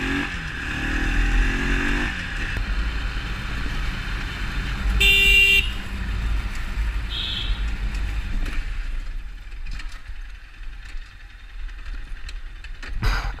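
Motorcycle riding in traffic under a steady low wind and road rumble, its engine revving up over the first two seconds. A vehicle horn sounds loudly for about half a second around five seconds in, and a brief higher tone follows a couple of seconds later.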